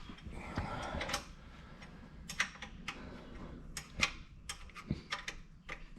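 About a dozen light, irregularly spaced metallic clicks from a wrench working a loosened oil drain plug under the car as it is backed out.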